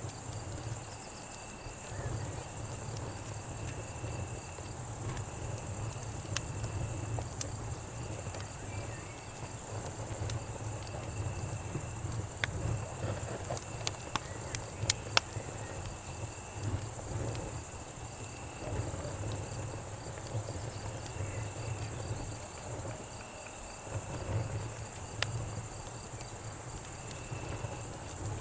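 A steady, high chorus of night insects, crickets and cicadas, with another insect chirping again and again every two to three seconds. A few sharp campfire crackles pop now and then, most around the middle, over a low steady rumble.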